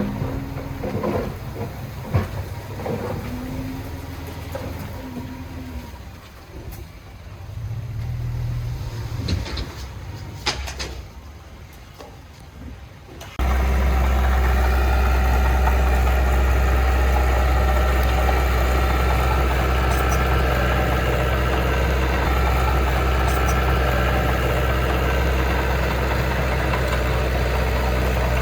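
Heavy diesel engine of earthmoving equipment. For the first half it is quieter and uneven, with a few knocks. About halfway through the sound jumps abruptly to a loud, steady, deep engine note that holds to the end.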